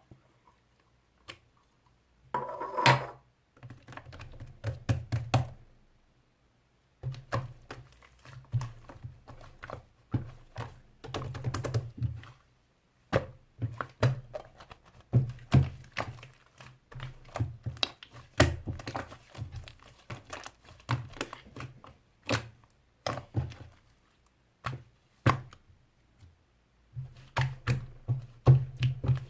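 Slime squeezed and pressed by hand, making an irregular run of wet clicks and pops, each with a soft thud, with a couple of brief pauses.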